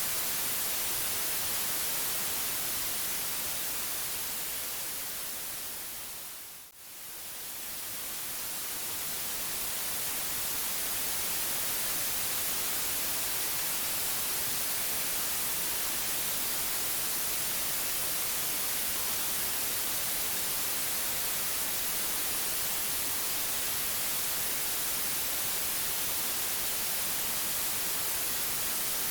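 Steady white noise, an even hiss strongest in the high end. About seven seconds in, it fades sharply almost to nothing, then swells back to full level over the next five seconds or so.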